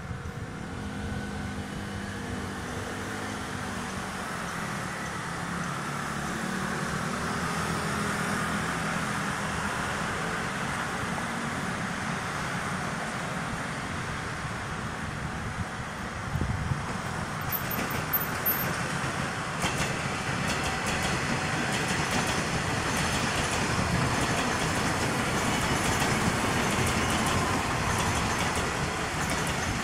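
Taiwan Railways EMU500 electric commuter train approaching and running past on the line. Its noise builds from about halfway in to a loud rolling rumble with rapid clacking near the end.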